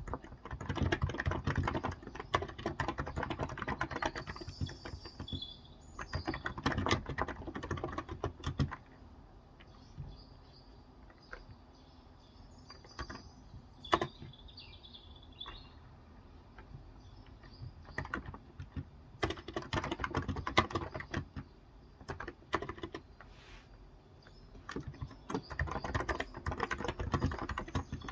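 Typing on a Cox Endeavor electro-capacitive (Topre-style) 35g tenkeyless keyboard: runs of fast keystrokes broken by pauses of a few seconds. Faint bird chirps come through in the pauses.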